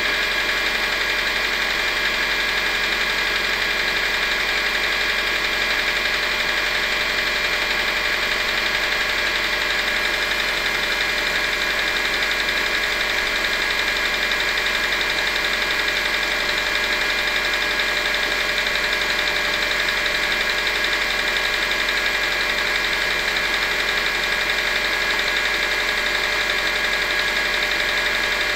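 Subaru EJ202 2.0-litre flat-four engine idling steadily with a knock, which the owner puts down to the fourth cylinder.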